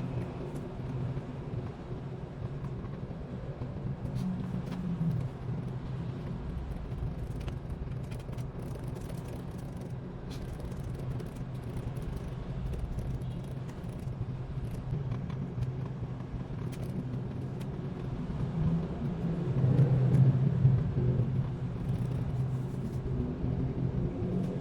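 Steady low rumble with faint scattered clicks, swelling louder about twenty seconds in.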